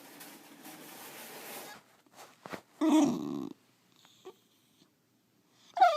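A pet animal gives a short, loud call about three seconds in, after a stretch of faint hiss. A second, longer call starts right at the end.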